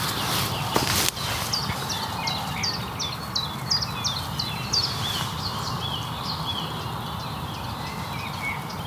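Songbirds singing: a run of short high chirps repeated about three times a second, with lower warbling notes beneath, over a steady background hiss. A couple of sharp clicks about a second in.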